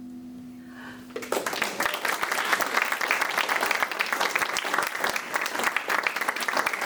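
The song's last held note dies away, and about a second and a half in an audience breaks into steady applause that carries on.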